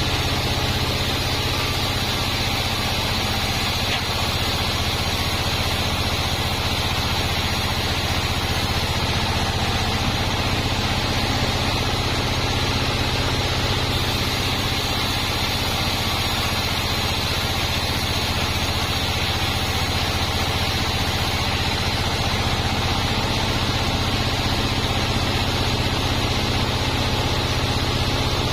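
Bandsaw sawmill machine running steadily, with a constant low hum and a higher whine that hold without change.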